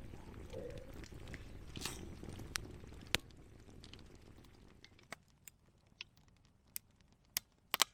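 Wood campfire crackling, with irregular sharp pops. A soft rushing sound fades out in the first half, leaving separate pops more clearly heard.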